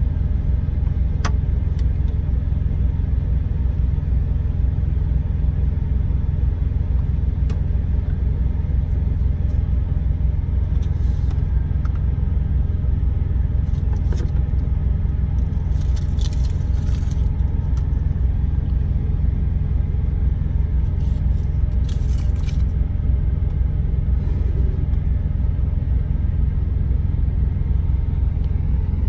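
Steady low rumble of a truck's engine heard inside the cab, with a few brief clinks and rattles over it.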